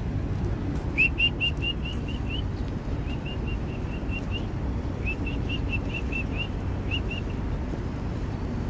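A songbird calling in quick runs of short whistled notes, about five a second, in several bursts, over the steady low rumble of an idling truck engine.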